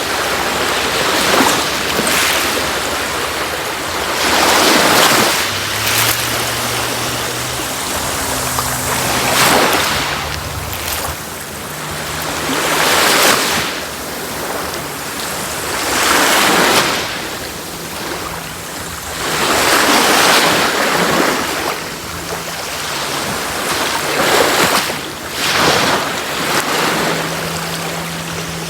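Sea waves breaking and washing onto a beach, the surf swelling and falling about every three to four seconds.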